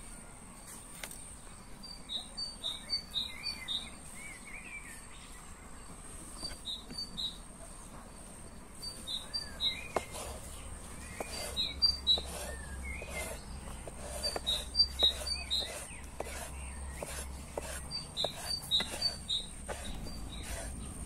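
A small bird chirping in quick runs of three to five high notes, repeated every second or two. From about halfway, a chef's knife cutting a peeled tomato taps sharply on a bamboo cutting board again and again; these taps are the loudest sounds.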